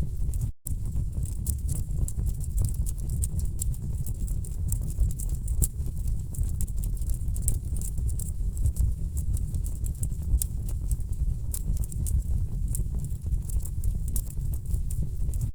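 Wood fire burning in a fireplace: a steady low rumble of flames with dense, irregular crackles and pops from the burning logs. The sound cuts out for an instant about half a second in.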